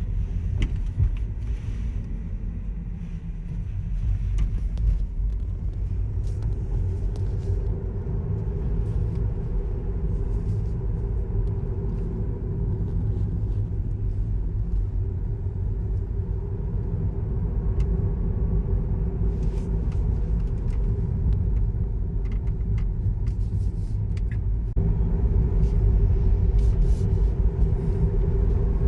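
Car driving on the road, heard from inside the cabin: a steady low rumble of tyres and engine with a constant hum. It gets a little louder near the end.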